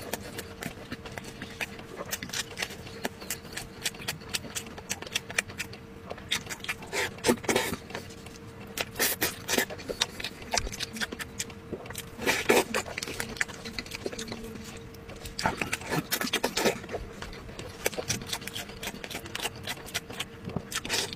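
Close-miked eating: wet chewing and lip smacks on braised pork hock, with irregular sharp clicks and smacks coming in clusters.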